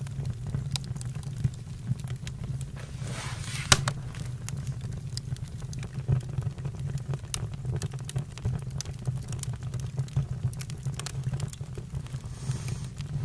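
Campfire burning with a steady low rumble and frequent irregular crackles and pops, the sharpest pop just before four seconds in. Brief hisses at about three seconds and near the end.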